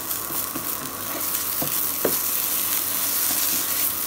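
Sliced okra frying in oil in a nonstick pan with a steady sizzle as it crisps, stirred with a wooden spatula that scrapes and knocks against the pan a couple of times about halfway through.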